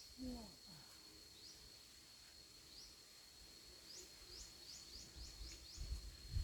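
Faint rural ambience: a steady high-pitched insect drone, with a bird's short rising chirps, a few at first and then about seven in quick succession in the second half.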